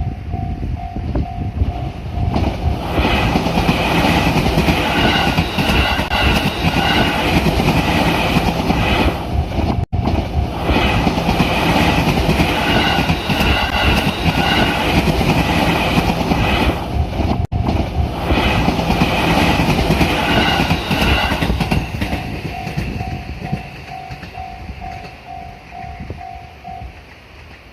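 A level-crossing warning bell dings steadily, about two strokes a second. Then a train passes through the crossing for about twenty seconds, its wheels clattering on the rails and drowning out the bell. As the train draws away the bell is heard again, and it stops shortly before the end.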